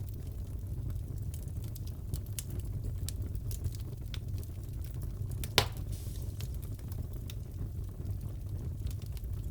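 Fireplace crackling: a steady low rumble of burning wood with frequent small pops and one louder snap about halfway through.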